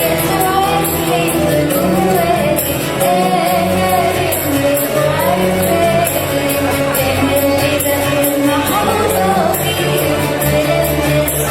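Choir singing an Arabic Christian hymn over instrumental accompaniment, with a steady beat of high, jingling percussion.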